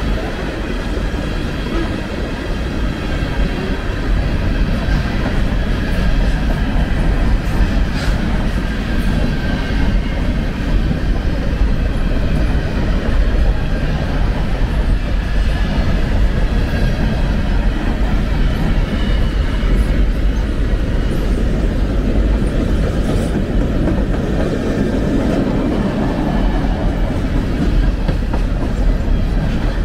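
Freight cars of a passing train, tank cars then covered hoppers, rolling by at close range: a steady loud rumble of steel wheels on rail. Faint high steady tones from the wheels sound through it, along with a couple of sharp clicks.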